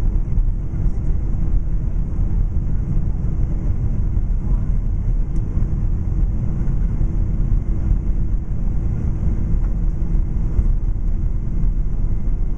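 Boeing 767-300 heard from inside the passenger cabin: a steady low rumble of jet engine and airframe noise with a constant hum.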